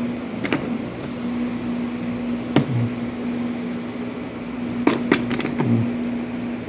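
A steady mechanical hum with a few sharp clicks and knocks.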